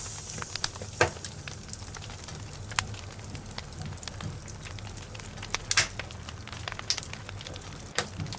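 Logs burning in a fireplace, crackling steadily with irregular sharp pops. The louder pops come about a second in, around the middle and near the end.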